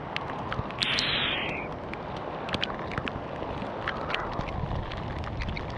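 Hail and rain striking hard surfaces close to the microphone in many sharp, irregular clicks, over a low rumble of wind on the microphone; a short hiss comes in about a second in.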